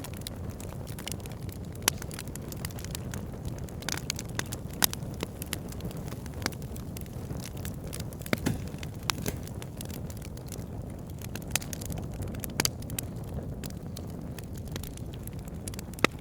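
Wood fire burning in a fireplace: a steady low rumble of flames with frequent sharp crackles and pops at irregular intervals, a few of them louder snaps.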